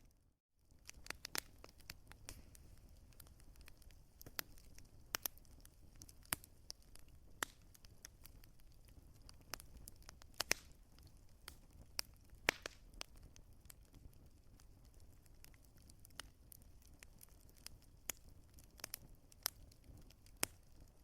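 Wood fire crackling in a fireplace: irregular sharp pops and snaps over a low, steady rumble. The sound drops out briefly right at the start, and the loudest pops come about halfway through.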